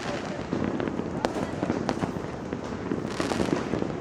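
Many fireworks and firecrackers going off at once across the city: a dense, continuous crackling with frequent sharp bangs.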